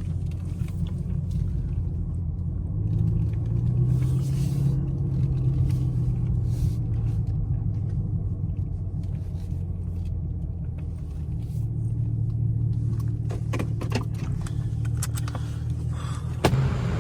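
Straight-piped 2017 Camaro SS's 6.2-litre V8 running at low revs with a deep, steady exhaust rumble that rises slightly twice. A few light clicks come near the end.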